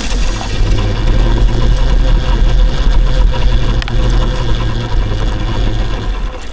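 Electric dirt bike riding along with a steady motor whine, under heavy wind rumble on the microphone; the rumble drops away near the end as the ride slows.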